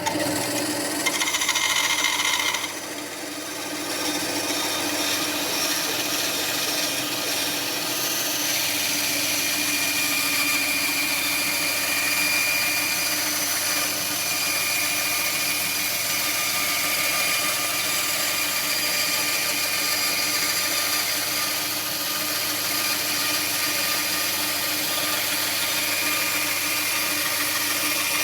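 Ryobi band saw running with its blade cutting wood: a steady motor-and-blade noise that is louder, with a higher whine, for the first two to three seconds, then holds steady.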